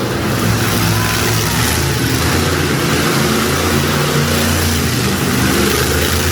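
Monster truck engine running loud, its note rising and falling a little.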